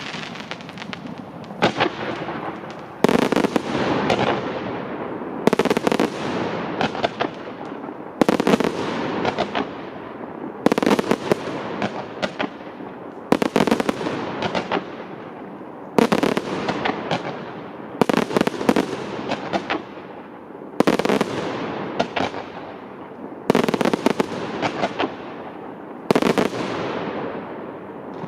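Fireworks display: aerial shells bursting with a sharp bang about every two and a half seconds, each bang followed by crackles that trail off.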